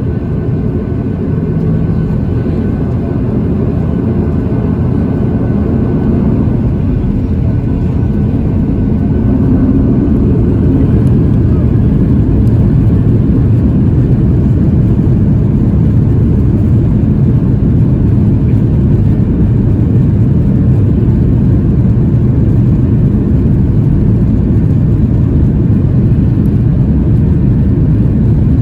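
Boeing 737-800's CFM56-7B jet engines at high thrust during take-off and climb, heard inside the passenger cabin as a loud, steady low rumble that grows louder about nine seconds in.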